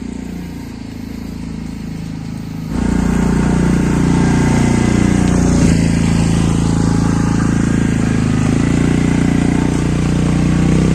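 Motorcycle engine running under load on a rough uphill road, its pitch rising and falling with the throttle. It gets noticeably louder about three seconds in.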